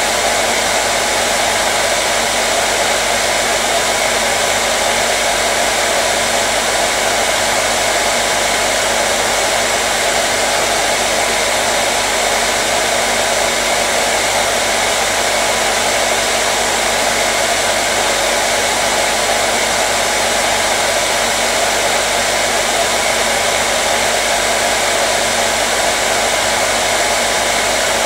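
Hair dryer running continuously, a steady even rush of air with a low motor hum underneath.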